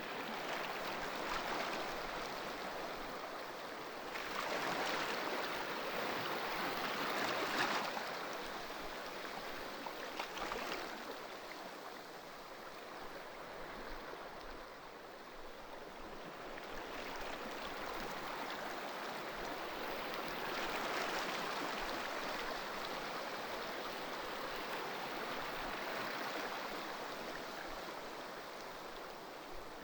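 Ocean waves breaking and washing in as a continuous rush of surf that swells and eases every few seconds, with the loudest surges about five to eight seconds in and again around twenty seconds in.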